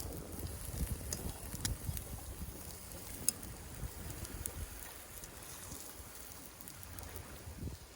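Wind buffeting the microphone in an uneven low rumble, with a few faint sharp clicks scattered through it.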